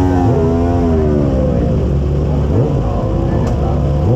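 Racing motorcycle engine idling steadily, with quick throttle blips that make its pitch rise sharply about halfway through and again near the end.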